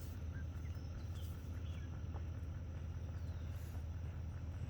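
Rural outdoor ambience: insects chirping in a high, even rhythm over a steady low rumble, with a few faint short chirps.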